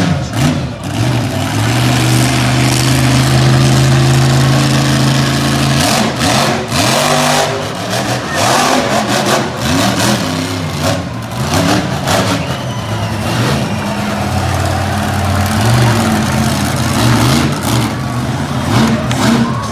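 Monster truck's engine revving hard: held at high revs for a few seconds, then rising and falling sharply with the throttle.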